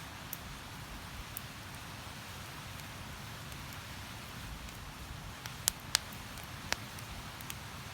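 Wood campfire crackling: a few sharp pops in the second half, over a steady rushing hiss.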